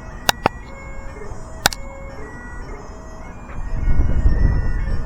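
Bagpipes playing steady held notes over their drones, with a few sharp clicks early on. About two-thirds of the way through, a loud low rumble rises up under the piping.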